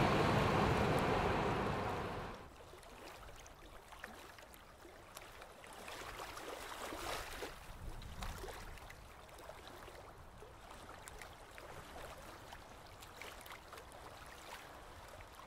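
A passing train fades out over the first two seconds or so. Faint water sounds with small ticks and splashes follow.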